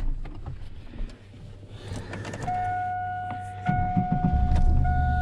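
A steady electronic tone comes on about halfway through, and soon after a vehicle engine's low hum starts and runs evenly.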